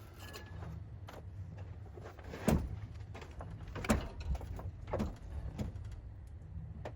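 A few sharp knocks and clatters from hands and tools working an engine out of a car's engine bay, loudest about two and a half and four seconds in, over a low steady hum.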